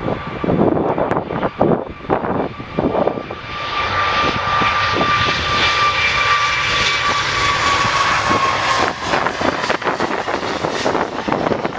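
Wind buffeting the microphone, then from about three seconds in a jet airliner's engines grow loud, with a high whine that falls slightly in pitch as the aircraft passes. After about nine seconds the whine gives way to a rougher roar mixed with wind gusts.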